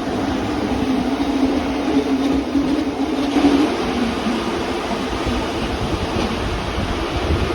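Rhaetian Railway regional train running, heard from on board: a steady rush of wheel and rail noise with a low hum that fades about halfway through.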